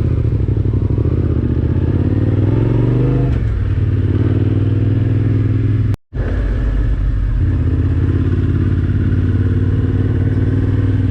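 Yamaha Ténéré 700's parallel-twin engine running under way, revving up about two seconds in, then settling back. The sound cuts out for a moment about six seconds in, then the steady running resumes.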